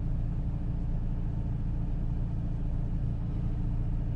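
Renault Clio Mark III's 1.2 litre petrol engine idling steadily with a low, even hum.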